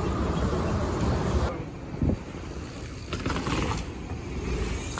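Mountain bike rolling with wind rushing on the microphone; the rumble eases about a second and a half in. One sharp knock about two seconds in, then a few faint clicks.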